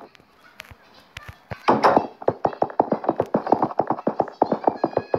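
Quiet for about a second and a half, then a fast, even run of light taps, about five or six a second, like quick footsteps on a hard surface.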